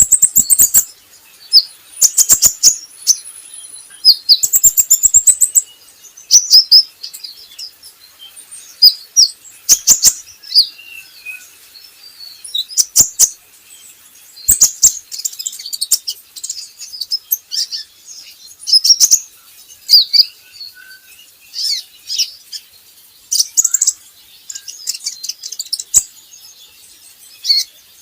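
Kolibri ninja, a small sunbird, singing: high, thin chirps and rapid trills in short bursts every second or two.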